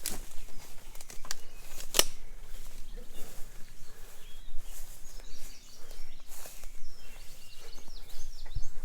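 Footsteps outdoors, with sharp snaps at the start and about two seconds in. A small bird chirps a quick run of short high notes from about five seconds in to near the end.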